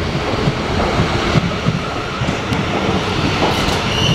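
South Western Railway Class 444 electric multiple unit passing close by: a steady loud rush of wheel and train noise, with wind buffeting the microphone. A high steady whine comes in at the very end.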